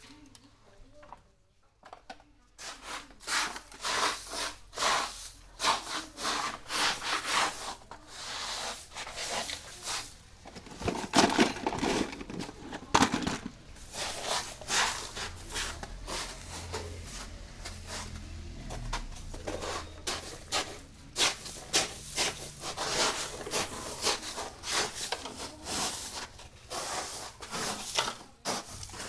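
Irregular rubbing and scraping strokes, close to the microphone, starting about two seconds in and going on without a break.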